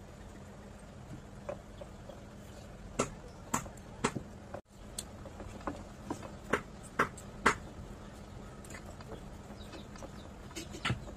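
Close-miked eating sounds: a man chewing mouthfuls of rice and curry, with short wet lip smacks and mouth clicks, mostly bunched in the middle, over a faint steady hum.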